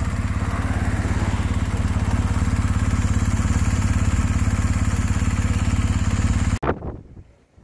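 Motorcycle engine running steadily with an even, low pulsing beat. It cuts off abruptly about six and a half seconds in, leaving only faint noise.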